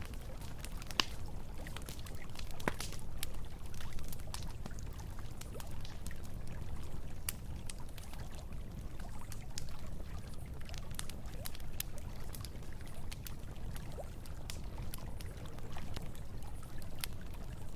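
Campfire crackling, with scattered sharp pops and snaps, over the steady rush of flowing river water.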